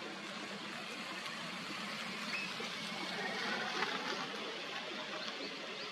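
Steady outdoor background hiss, swelling slightly about halfway through.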